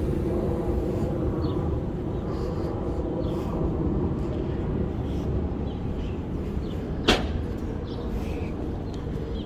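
Steady low rumble of city traffic, with faint short chirps and one sharp click about seven seconds in.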